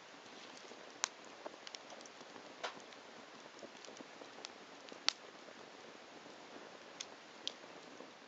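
Wood fire burning on the bare ground: a steady soft hiss and crackle with scattered sharp pops, the loudest about a second in and about five seconds in.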